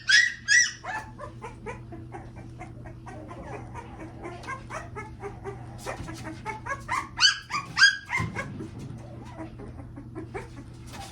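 Newborn American Bully puppy crying in high-pitched whines that rise and fall, in two spells: one at the start and another about seven seconds in, with small clicks of handling between them.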